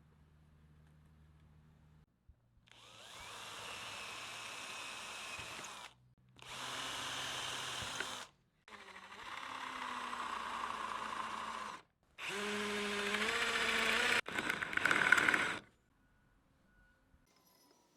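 A handheld power tool run in four bursts of a few seconds each, with short pauses between. The motor's pitch shifts within the bursts, and the last one is the loudest.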